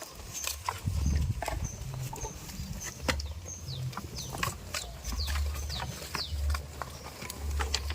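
Birds chirping in many short, high, falling notes, with scattered sharp clicks and a low rumble that comes and goes.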